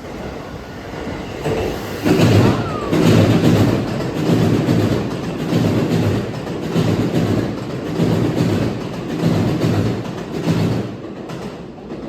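Electric train running past, its wheels clattering over rail joints in a steady rhythm of loud beats a little over a second apart, building about two seconds in and fading near the end.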